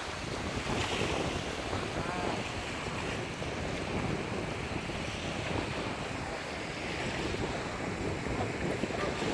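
Sea waves washing in, rising and falling in slow swells, with wind buffeting the microphone.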